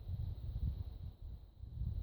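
Wind rumbling on the microphone, with no woodpecker taps.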